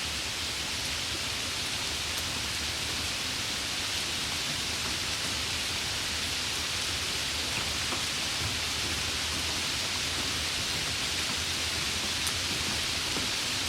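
Steady rain falling: an even hiss with a few faint, sharp ticks of drops.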